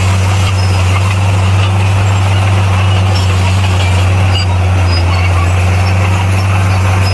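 Bulldozer's heavy diesel engine running steadily, a loud deep drone that holds an even pitch and level.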